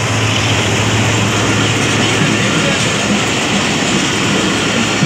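Passenger train coaches passing close by at speed, a loud steady noise of wheels running on the rails.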